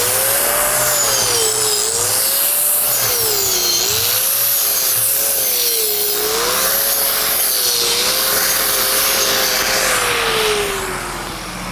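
Welding arc crackling and hissing while a downhill pass is run on a pipe joint. A wavering tone rises and falls every second or two, then slides down as the sound fades near the end, as the arc is broken off at the finish of the weld.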